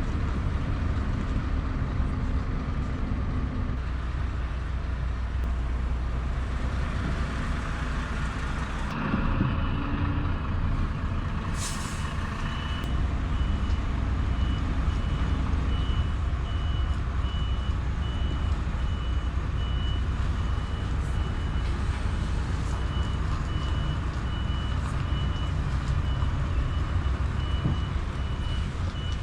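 Scania V8 truck engine running steadily. About a third of the way in there is a sharp hiss of air, typical of the air brake being released, and then the truck's reversing alarm starts beeping at an even pace, about once a second.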